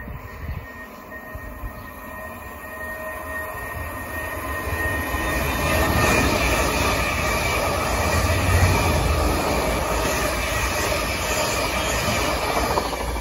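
Two coupled Class 444 Desiro electric multiple units passing at speed. The sound of the wheels on the rails builds as the train approaches, with a thin, steady high whine in the first few seconds. It is loudest from about six seconds in as the carriages run past.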